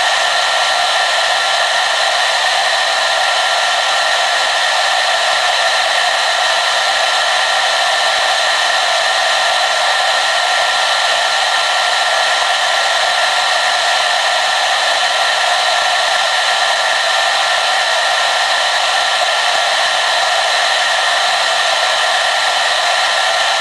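Hair dryer blowing steadily: an even rush of air with a faint high whine from the motor, unchanging throughout.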